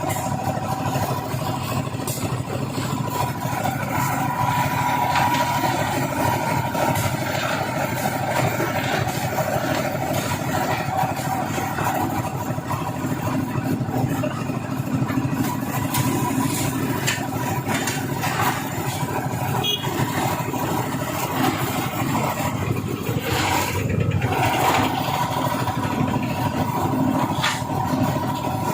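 An engine running steadily, with a few short knocks and clicks over it.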